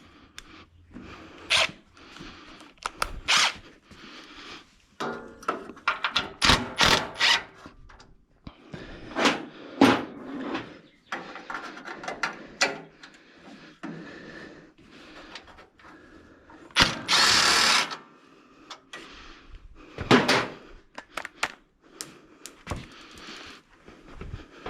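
A battery-powered power tool runs in short spurts on fasteners, among metal clanks and tool rattles; the longest spurt, about a second, comes a little past two-thirds of the way through.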